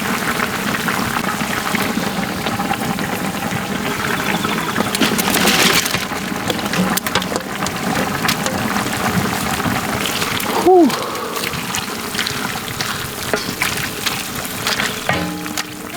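Yukgaejang (spicy beef stew) in a cast-iron cauldron: steady liquid splashing and pouring with small clinks. About eleven seconds in comes a short, loud squeak that falls in pitch.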